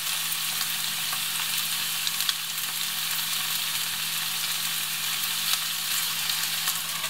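Chopped tomatoes and bell peppers sizzling steadily in a hot frying pan, with a few light ticks. A spatula stirs in the garlic near the end.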